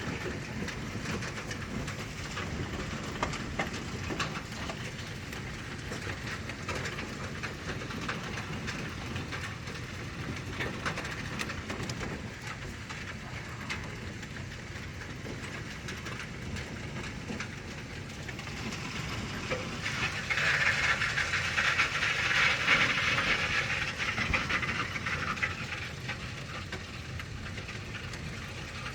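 Heavy rain and hail from a thunderstorm pelting down as a steady hiss dotted with sharp ticks of hailstones striking, swelling louder for a few seconds about two-thirds of the way through.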